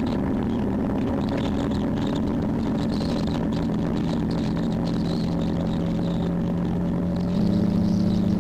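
Motorcycle engine running under way at a steady speed, a steady drone; about seven seconds in its pitch steps up and it gets a little louder.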